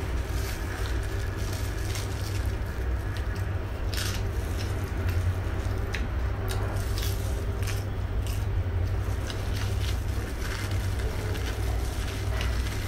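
Close-miked chewing and lip-smacking of a person eating chicken adobo, with scattered short wet clicks, over a steady low hum.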